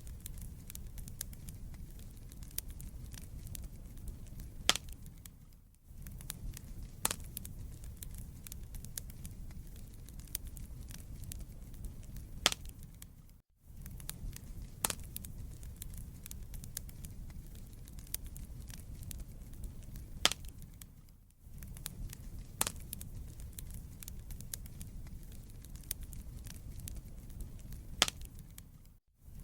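Wood fire burning in a fireplace: a steady low rumble of flames with frequent sharp crackles and pops from the burning logs. The sound briefly drops out to near silence about every eight seconds.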